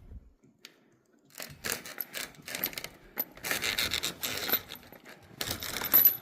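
Snow being scraped and pushed away in a series of rough scraping strokes, with a sharp clink near the end.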